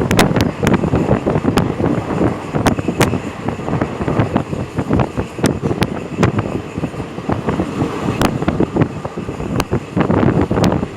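Wind buffeting the microphone over the running rumble of a moving vehicle, with scattered sharp clicks and knocks throughout.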